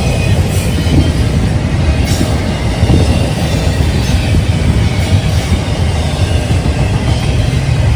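Train rolling past: a steady low rumble of railcar wheels on the rails, with a few faint sharp clicks.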